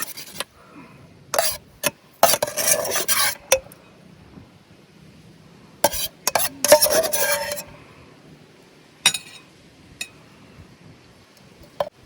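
A metal utensil stirring and scraping in a cooking pot, in two scraping bursts of about a second each, with scattered sharp clinks of metal on the pot.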